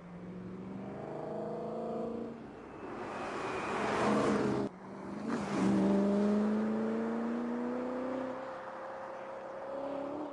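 BMW E92 M3's V8 accelerating hard past at speed, its note rising, with a rush of tyre and wind noise as the car passes close about halfway through. It then pulls away, the engine note climbing steadily.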